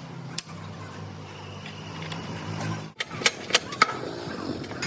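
A machine running with a steady low hum, then, after an abrupt cut about three seconds in, a run of sharp, irregular knocks.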